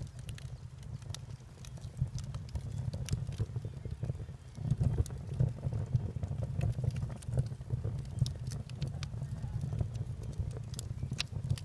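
Wood fire burning, crackling with scattered sharp pops and snaps over a steady low rumble that gets louder about halfway through.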